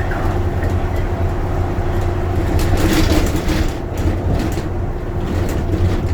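Bus running on the road, heard from inside: steady engine drone and road rumble, with a brief hiss about three seconds in.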